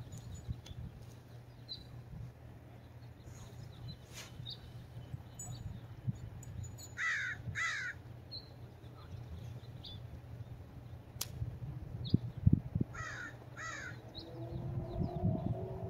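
A large bird gives two pairs of short, harsh calls about six seconds apart, over a steady low rumble. A few low thumps come about three-quarters of the way through.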